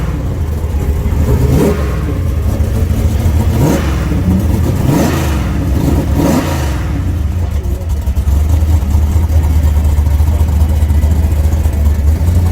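Drag race car engines revving hard, the pitch climbing and cutting off about five times, then a steady low drone. The cars are a turbocharged Mustang and a nitrous G-body Monte Carlo.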